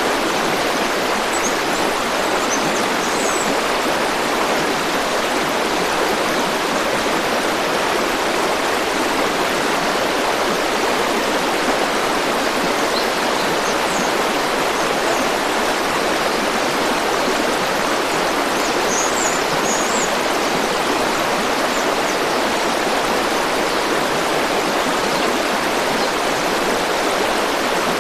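River water flowing in a steady rushing stream, with a few faint high chirps now and then.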